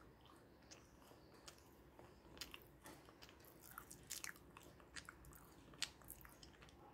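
Quiet, close-up chewing of crunchy gingerbread cookie: small crackling crunches that come thicker from about two seconds in, with one sharper crunch near the end.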